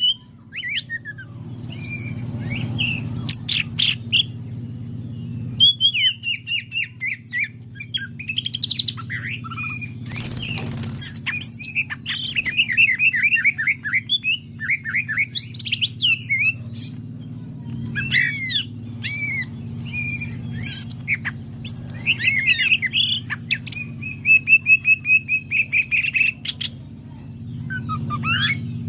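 Green leafbird (cucak ijo) singing hard and almost without pause, in a long run of fast chirps, whistled slurs and trills, over a steady low hum.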